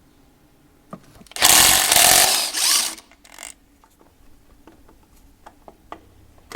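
A handheld power tool runs in one loud burst of about a second and a half, then trails off briefly. Light metal tool clicks follow.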